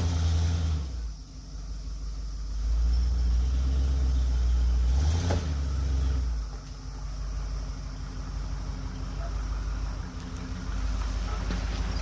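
A vehicle engine running with a low note. It swells louder for a few seconds, then eases to a steadier, quieter run.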